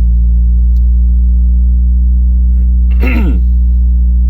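Steady low ambient drone of several held deep tones, unchanging throughout, with a brief vocal sound about three seconds in.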